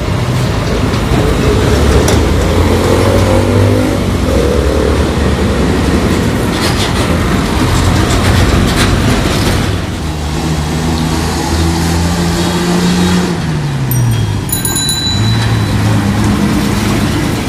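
CNG-converted Bedford TK truck engine running as it drives past in road traffic, its pitch falling about two-thirds of the way through. A brief high ringing tone sounds a little after.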